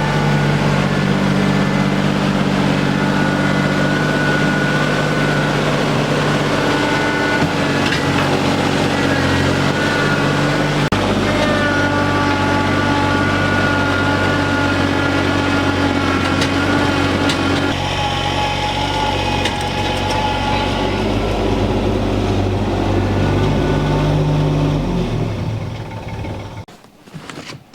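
A vehicle engine running steadily, its pitch shifting in steps every few seconds as the speed changes. It dies away near the end.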